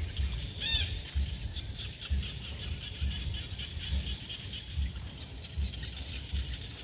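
Birds chirping and calling in the trees, with one sharper, louder call a little under a second in, over a faint steady high whine. Irregular low rumbles knock on the microphone throughout.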